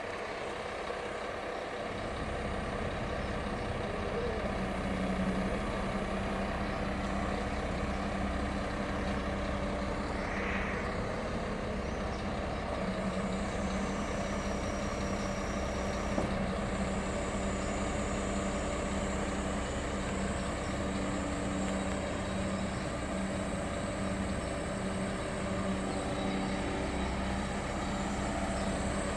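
Scania 420 truck's diesel engine running steadily, its low hum growing stronger about two seconds in and then holding even.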